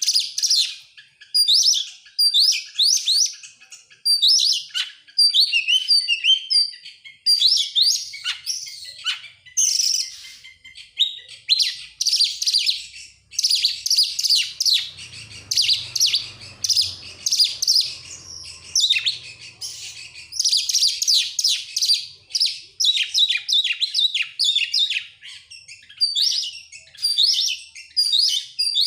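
Oriental magpie-robin (kacer) singing in quick runs of high whistles and chattering notes, phrase after phrase with short pauses between.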